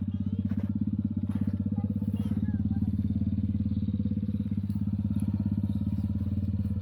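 Kids' car's 110cc engine running steadily at an even speed, a dense, regular putter.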